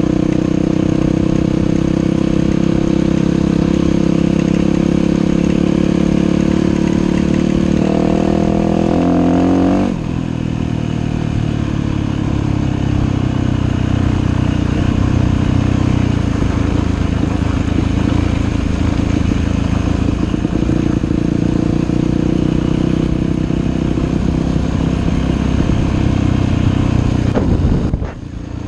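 Dirt bike engine running under way. It climbs in pitch for about two seconds, about eight seconds in, then drops off sharply. It keeps running at a lower, rougher pitch, with a short dip in loudness near the end.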